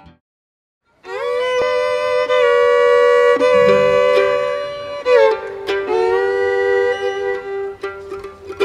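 After a moment of silence, a bluegrass fiddle plays long bowed notes. It slides up into a held note about a second in, then drops to a lower note about halfway through and holds it.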